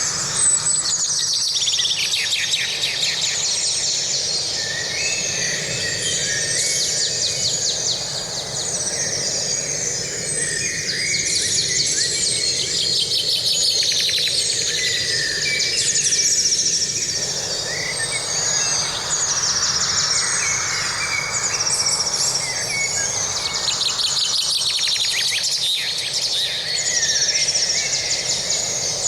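Several birds singing and calling, with overlapping trills and chirps, over a steady background hiss.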